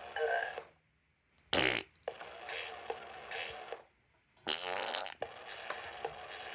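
Two short fart noises, each played back by a Gemmy Pete the Repeat Parrot toy in its recorded voice, a quieter echo of a second or two after each one.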